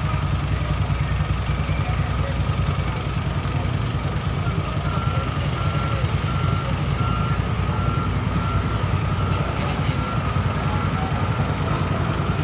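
Heavy diesel vehicle running with a steady low rumble. About five seconds in, a reversing alarm starts beeping about twice a second and keeps on until near the end.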